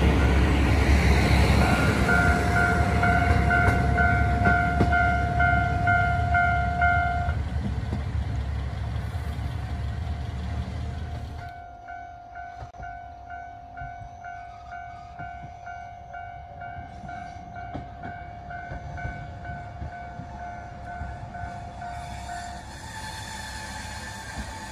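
Diesel railcar pulling away, its engine and wheel rumble fading, while a railway level-crossing warning bell rings about twice a second. After a sudden change to a quieter scene, the crossing bell rings again at the same beat and stops near the end as the next railcar approaches.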